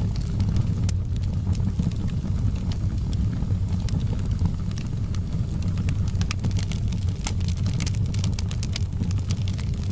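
Wood fire burning in a fireplace: a steady low rumble of flames with irregular sharp crackles and pops, which come thickest a little past the middle.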